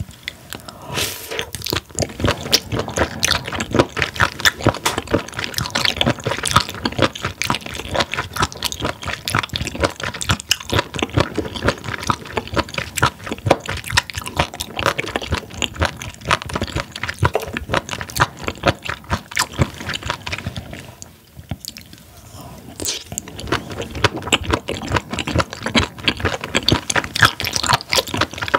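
Close-miked chewing of raw spoon worm (gaebul): steady crunchy, rubbery bites with wet, squishy mouth sounds, pausing briefly about three quarters of the way through.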